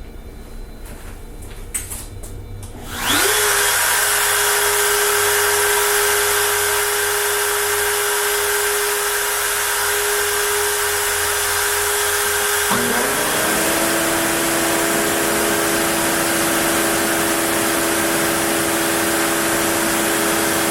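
OneFinity CNC machine starting its cutting pass. About three seconds in, a loud steady motor whine comes on suddenly, rising in pitch as it spins up. About thirteen seconds in, the pitch drops and a second tone joins, then it runs on steadily.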